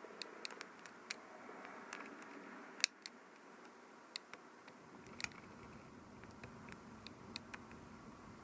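Irregular small, sharp clicks and ticks of tools and tiny parts being handled during the repair of a Canon PowerShot S110 compact digital camera, the loudest about three seconds in.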